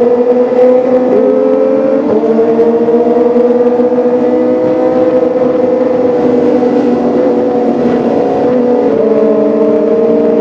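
Kawasaki ZX-25R's four-cylinder engine running steadily under load, its exhaust note drifting slowly up and down in pitch, with brief breaks in pitch about a second and two seconds in and again near the end.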